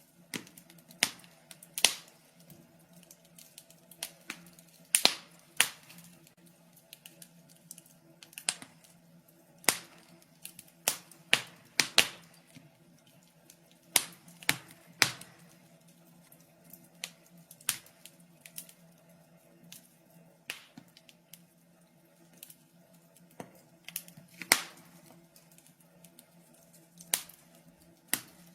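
Wood fire crackling, with irregular sharp pops and snaps, some a second or two apart and some in quick clusters, over a faint steady low hum.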